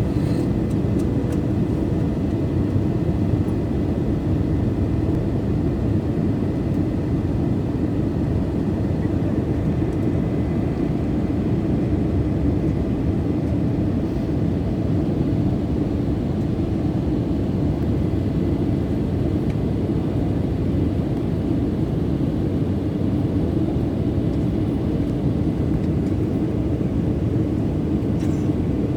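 Aircraft cabin noise in flight: a steady, even rush of engine and airflow noise, mostly low, with a faint high tone running through it.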